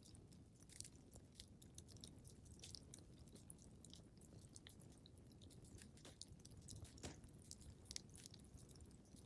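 Faint wood fire crackling in a fireplace: irregular small pops and snaps over a steady low rumble, with a sharper snap about seven seconds in.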